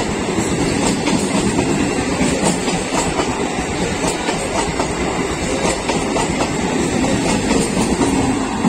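Indian suburban local train passing close by, its wheels clattering over the rail joints in a steady, loud rumble.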